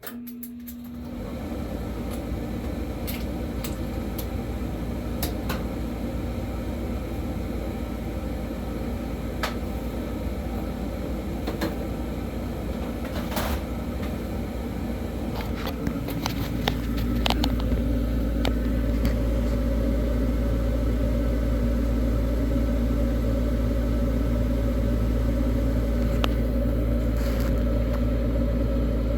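Carrier gas furnace blower motor starting after its delay and running with a steady low hum, with scattered sharp ticks. About halfway through, the drone steps up louder.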